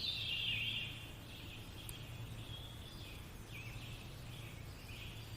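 Faint birds chirping and twittering in a nature-sound backdrop, over a low steady hum.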